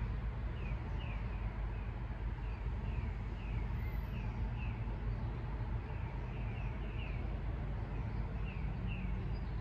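A bird calling over and over in short falling chirps, about two a second, over a steady low rumble.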